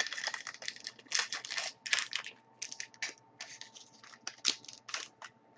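Foil wrapper of a hockey card pack crinkling and tearing as it is opened, with the cards slid and handled: a run of irregular short crackles and rips.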